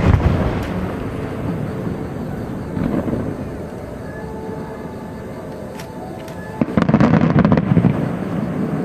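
Aerial firework shells bursting overhead: a loud boom with a long rolling rumble at the start, a smaller swell about three seconds in, then another loud cluster of sharp cracks and deep booms from about six and a half seconds.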